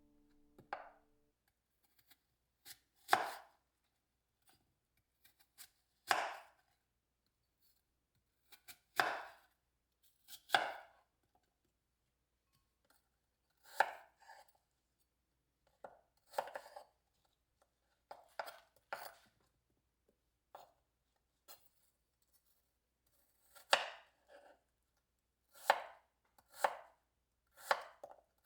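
Knife chopping on a cutting board: single, unhurried cuts at irregular intervals, one every one to three seconds.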